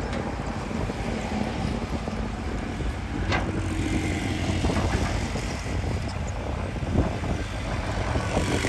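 Diesel engine of heavy earthmoving machinery running steadily, with a single sharp clank about three seconds in.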